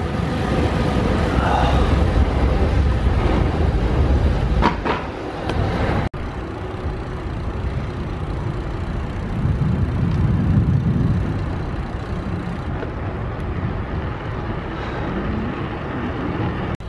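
Steady road-vehicle noise with a deep rumble, broken off abruptly about six seconds in and then carrying on.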